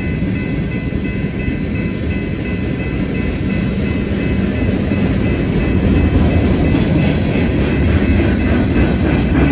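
Train rolling past on the rails: a steady, loud rumble of wheels and cars, getting a little louder about halfway through.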